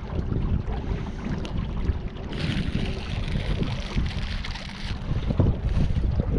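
Wind buffeting the microphone on a kayak on the river, a steady low rumble, with a stretch of higher hiss from about two to five seconds in.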